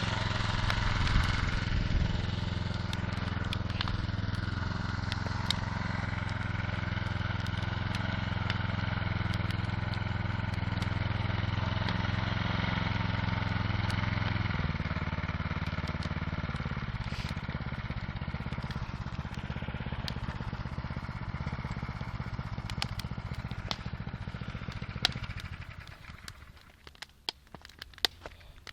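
Bonfire crackling, with sharp pops scattered throughout, over a steady low mechanical hum that changes pitch about halfway through and fades out near the end.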